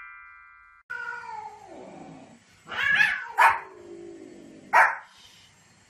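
A cat's drawn-out yowl falling in pitch, then a small fluffy white dog giving a few short, sharp barks, the last two about a second and a half apart.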